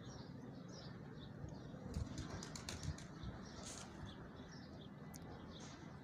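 Quiet outdoor ambience: small birds chirp now and then over a low steady rumble, with a cluster of sharp clicks about two to three seconds in.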